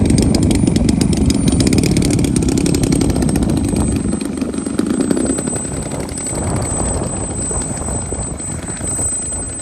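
Radio-controlled model aircraft engine running loud and steady, with a thin high whine over it; the sound eases off a little in the second half.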